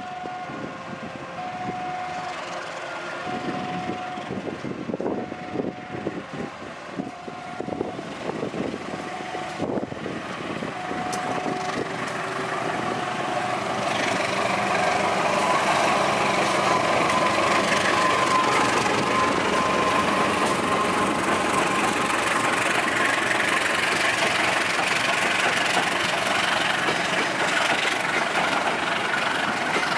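A level-crossing warning signal repeats a short tone about every second and a half. Then an Indonesian diesel-electric locomotive hauling a rake of covered cargo vans approaches and passes close by. Its engine and the wheels on the rails swell into a loud, steady rumble from about halfway through.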